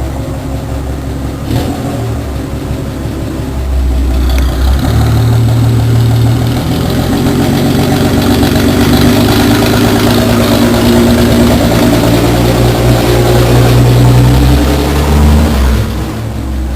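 Chevrolet 4.1 straight-six engine in a Willys Rural, running with a deep rumble. It picks up and gets louder about four seconds in, holds there, then eases back near the end.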